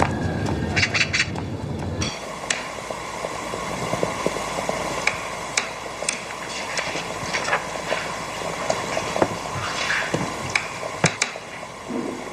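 Scattered light knocks and clinks over a steady background hum, setting in abruptly about two seconds in after a denser, busier stretch of sound.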